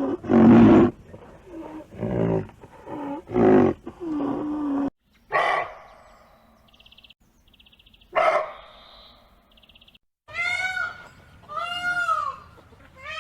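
A string of separate animal calls from several different animals, one after another: a cluster of calls in the first few seconds, two short sharp calls in the middle, and three arching calls near the end.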